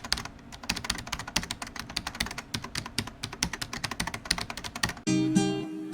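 Rapid, irregular clicks of typing, several a second. About five seconds in they stop and plucked guitar music begins.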